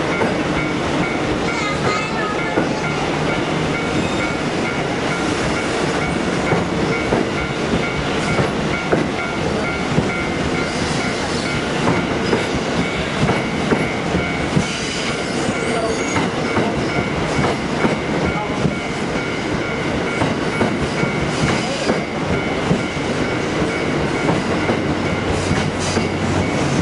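Railway cars rolling past, wheels clattering over rail joints in a continuous run of clicks, with a faint squeal early on.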